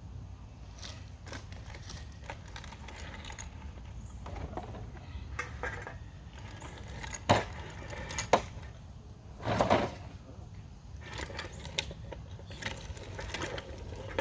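Meat grinder and pans clinking and knocking as carcasses are fed through for grinding, with two sharp knocks about a second apart midway and a short louder crunch just after.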